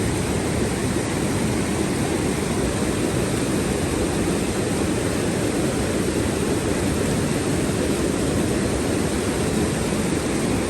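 Steady, loud rush of a flooded river's fast-running water.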